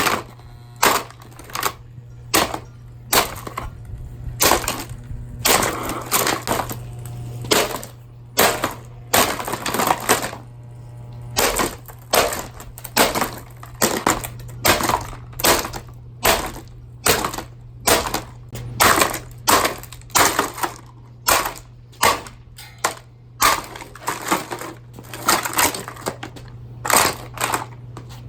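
A Hurricane box fan being smashed apart with repeated blows about once a second, its plastic cracking and crunching, some blows followed by longer stretches of crunching. A steady low hum runs underneath.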